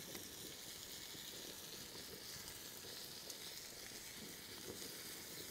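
Faint, steady sizzling of fish frying in hot oil.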